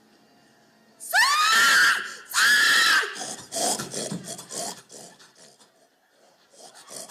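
A person's hog call: two loud, high-pitched drawn-out cries, the first rising in pitch, followed by a string of shorter, rougher calls that die away.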